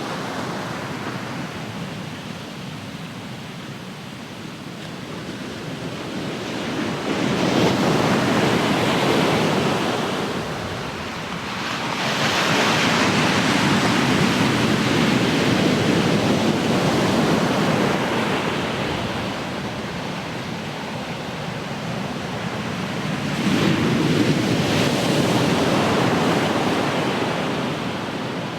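Ocean waves breaking and washing up the shore: three surges of surf, each lasting several seconds, with quieter lulls between them.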